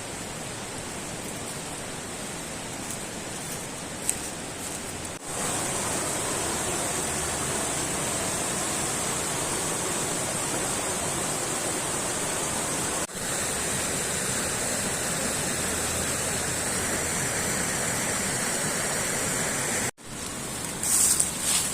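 Steady rushing of flowing water, even and unbroken within each shot, changing abruptly in level about five, thirteen and twenty seconds in.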